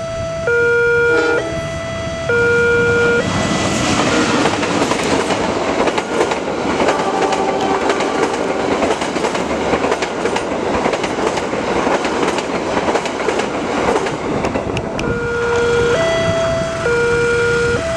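Electronic level-crossing alarm alternating between two tones, each held about a second. A passenger train then passes close by, drowning it out: a loud rush of coaches with rapid wheel clicks over the rail joints. The two-tone alarm is heard again near the end, after the train has cleared.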